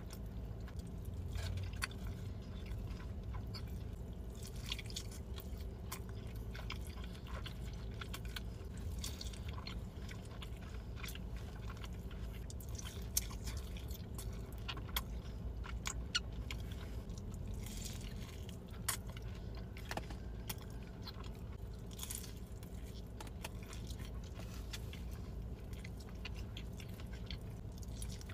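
Close-miked chewing of big mouthfuls of fast food, with many scattered sharp mouth clicks and a low steady hum underneath.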